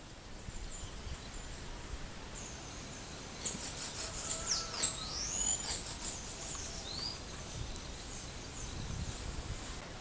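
Wild birds singing: a string of high, sweeping whistled notes from about three and a half seconds in until about seven seconds, over a steady low background hiss.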